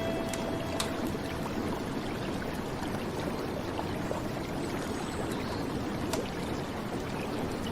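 Rain falling on a flowing river: a steady rush of water with scattered small drop ticks. A last held note of music fades out about a second in.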